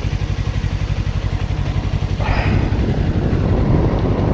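Motorcycle engine running with a steady low pulsing beat. About two seconds in, a louder rushing noise joins it.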